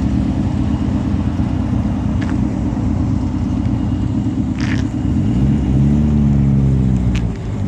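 Car engines rumbling at low revs. About five seconds in, one engine's note rises, holds briefly and falls away again, as a car revs and pulls past.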